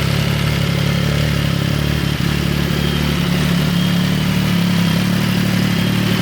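MV Agusta Dragster 800's three-cylinder engine idling steadily, its note lifting slightly about halfway through.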